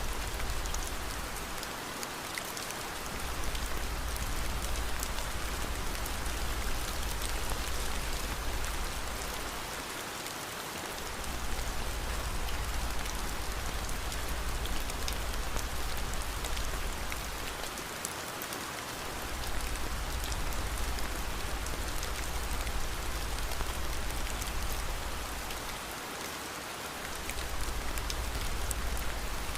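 Steady rain with faint scattered crackles, from a rain-and-fireplace mix. Under it runs a low rumble that dips briefly about every eight seconds.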